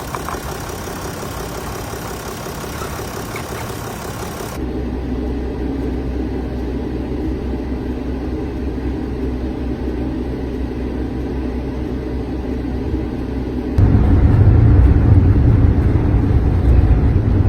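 Sprinter van running, a steady engine hum with rushing noise, heard in edited pieces that change abruptly twice; a much louder low rumble comes in about three-quarters of the way through.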